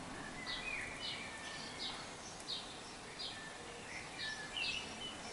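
Faint birdsong: a bird's short high chirps repeated about every half second, mixed with a few lower whistled glides.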